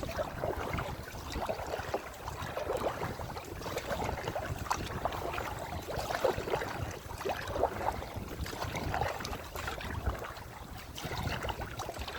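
Kayak paddle dipping and splashing through the water, with water lapping around the boat. Wind buffets the microphone with a low rumble throughout.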